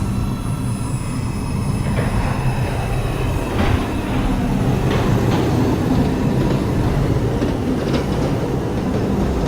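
R142 subway train pulling out of the station, its propulsion humming with steady tones over a low rumble. The wheels click over rail joints a few times.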